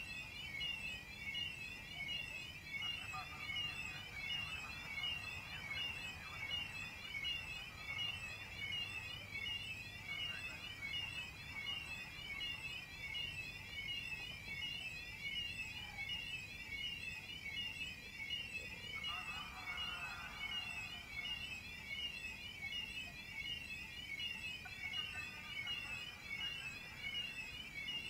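Electronic warning siren wailing steadily, sweeping up and down about twice a second, the kind of signal sounded at a railway halt or crossing as a train approaches. Short chirps come and go over it.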